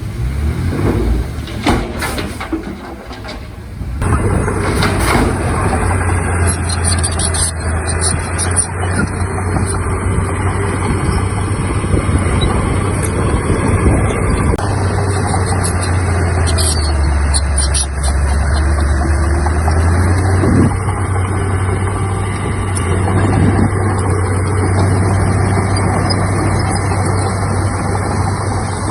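Heavy diesel engine of earthmoving equipment running, rough and uneven at first, then settling into a steady low hum about four seconds in. Its note dips lower for a few seconds past the middle and then comes back up.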